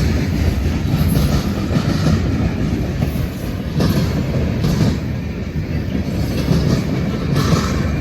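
Freight train cars rolling past: a steady, loud rumble of steel wheels on rail, with a few clicks as wheels cross rail joints.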